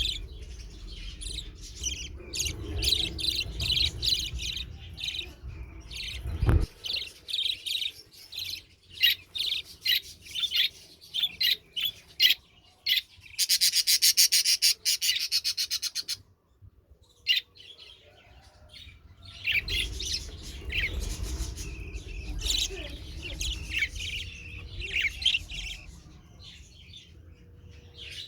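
Budgerigars chirping and squawking in quick, sharp calls, with a fast, even rattle lasting about three seconds in the middle and a single knock about six and a half seconds in.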